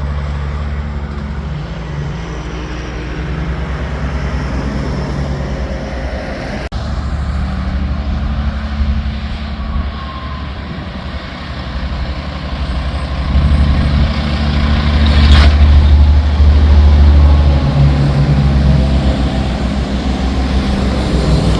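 Big-rig semi trucks' diesel engines running loud with a deep exhaust rumble. It swells loudest past the middle, with a short hiss about fifteen seconds in, and there is an abrupt cut to another truck about seven seconds in.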